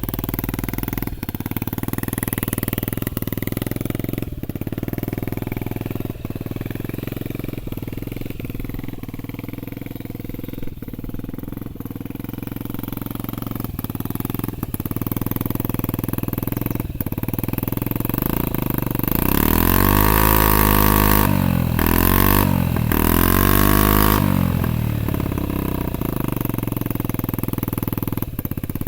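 Honda Zoomer scooter's single-cylinder four-stroke engine idling steadily, then revved twice about two-thirds of the way through, the pitch rising and falling each time before it settles back to idle.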